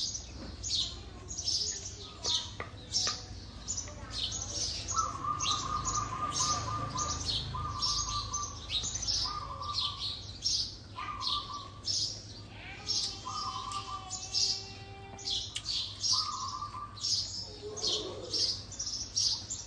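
Small birds chirping over and over, short high chirps about twice a second, with a buzzy trilled call coming in short bursts several times.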